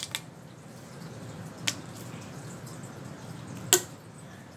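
Fidget toy being handled: three short, sharp pops or clicks spaced a second or two apart, the last the loudest, over a low steady hum.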